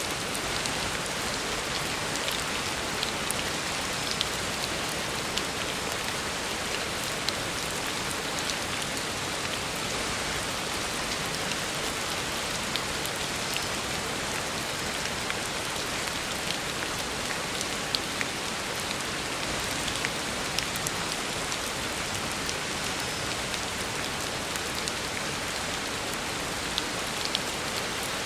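Heavy rain falling steadily on a road surface, a dense even hiss with scattered louder individual drop splashes.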